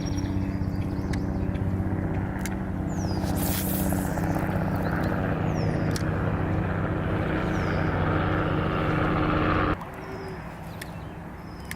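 Helicopter passing low overhead: a steady droning rotor and engine sound that cuts off suddenly near the end. A few short bird chirps sound over it.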